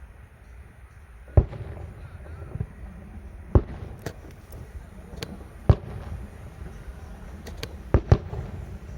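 Fireworks going off: about nine sharp, irregularly spaced bangs, several of them loud, with a pair of quick bangs near the end, over a steady low rumble.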